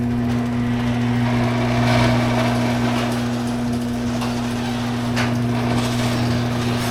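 Garage door opener motor running steadily with a strong hum as the door travels along its track, rattling, with a few sharp clicks. The opener is working again after its faulty capacitor was replaced.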